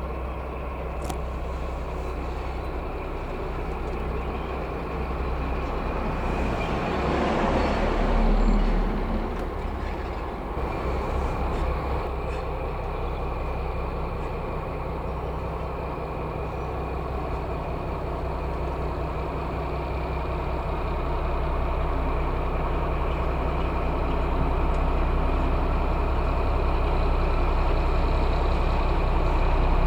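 DB class 218 diesel-hydraulic locomotive's V12 diesel engine running steadily, a low drone that grows slowly louder toward the end. A brief louder rushing swell about seven seconds in.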